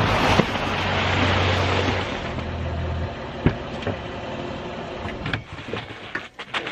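Ford Escape SUV driving, with tyre and road noise and a steady low engine hum. The hum stops about three seconds in, and the noise fades to a quieter rumble with a few sharp clicks.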